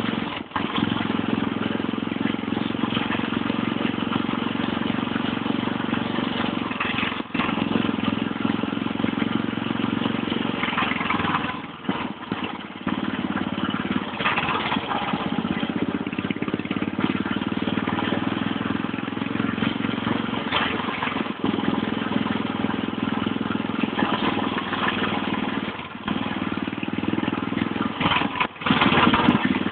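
Motorcycle engine running steadily while riding on a dirt trail, with a dense rush of wind and trail noise over it; the engine sound briefly drops a handful of times.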